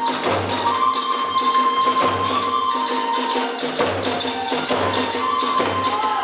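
Kagura hayashi ensemble playing: a bamboo flute holds long notes that step between pitches over fast, continuous clashing of small hand cymbals and drum strikes, with a deep drum beat about once a second.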